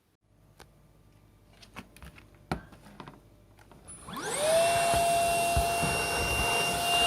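Hitachi PV-BFH900 cordless stick vacuum being handled with a few light clicks, then switched on about four seconds in: its motor whine rises quickly in pitch and settles into a steady high whine with a strong rush of air.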